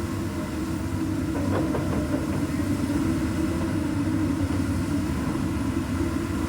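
Komatsu PC200 excavator's diesel engine running with a steady low rumble, with a few faint clicks about one and a half seconds in.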